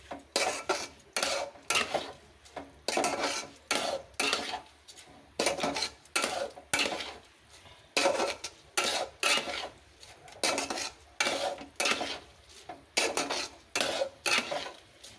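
A spoon stirring and scraping rice and lentils around a cooking pot in repeated strokes, a little more than one a second. The rice and dal are being sautéed with spices before the water goes in.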